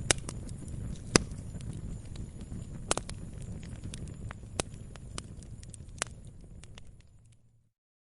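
Wood fire crackling in a fireplace: irregular sharp pops over a low, steady rumble of burning, with the loudest pops about a second in and near three seconds. The sound fades out near the end to complete silence.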